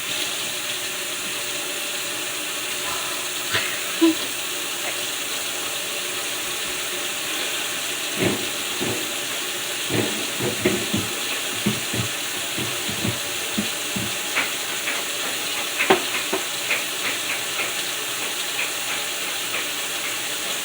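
Washing the inside of a refrigerator with soapy water: a scattered string of short knocks and rubbing strokes, thickest from about eight seconds in, over a steady hiss.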